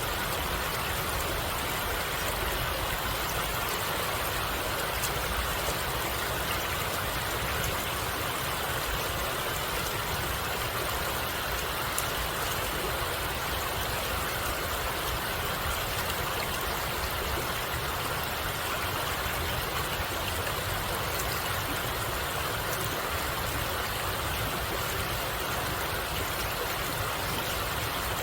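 Stream water flowing, a steady, even rush.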